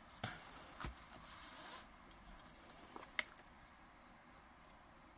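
Small handling sounds of paper-crafting materials on a table: a few light taps and clicks, with a brief rustle of paper about a second in.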